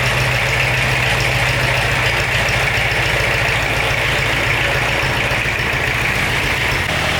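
Restored tractor engine idling steadily.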